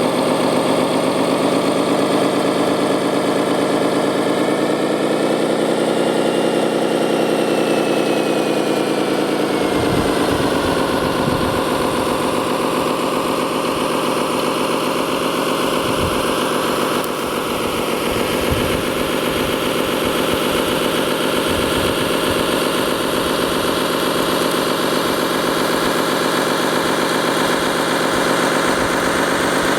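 Engine sound of a remote-controlled model construction machine, running steadily, rising in pitch for a few seconds and settling back down about ten seconds in. A faint high whine glides up and down over the rise, and scattered low knocks follow.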